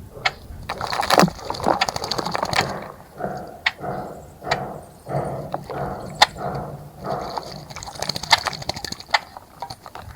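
Birds bathing in a bird bath: repeated short splashes and flutters of water, broken by sharp clicks and snaps.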